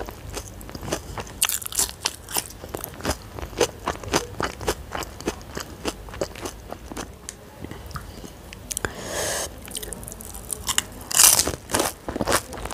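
Pani puri being eaten: crisp puri shells crunching and being chewed in many quick crackles, with a louder crunching bite about eleven seconds in.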